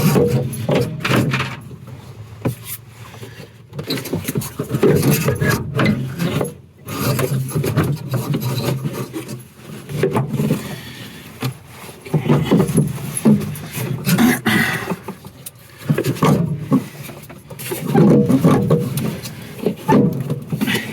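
A heater box being worked into a car's cab: irregular scraping, rubbing and knocking of the box against the body panels, in uneven spells with short pauses.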